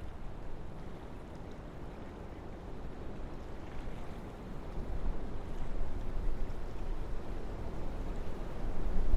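Wind blowing through a forest in low, rumbling gusts, swelling louder about halfway through.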